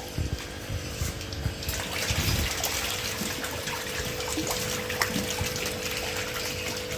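Water rushing and splashing in a biofloc fish tank, fuller from about two seconds in, over a steady hum, with scattered low thumps.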